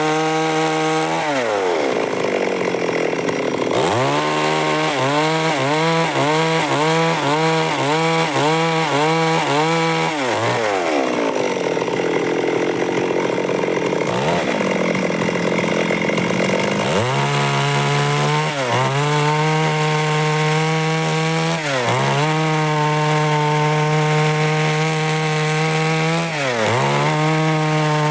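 Stihl MS 382 two-stroke chainsaw cutting wood. The engine runs at high revs, drops in pitch as the chain bites into the wood, then its revs rise and fall rapidly over several seconds before it labours at a lower pitch under load. It then revs high and steady again, with three brief dips as the chain touches the wood.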